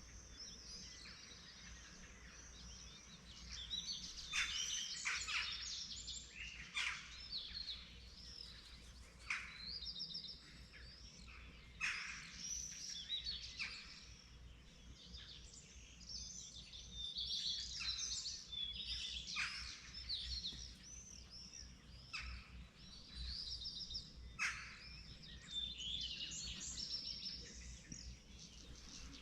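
Several birds singing in a dawn chorus: many short chirps, trills and whistled phrases overlapping throughout, over a faint low background hum.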